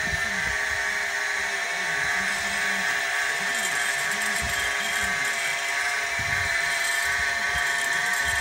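Small CNC machine running: a steady whine with low motor tones that slide up and down as the axes move back and forth.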